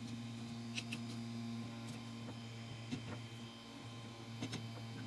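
Steady hum of a powered-on Anet A8 3D printer with its extruder and bed heated, broken by a few scattered light clicks and taps as plastic parts are worked with pliers.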